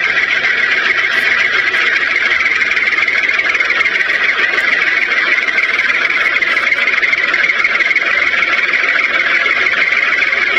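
Small electric motor of a homemade toy vehicle running, a steady, unbroken whir.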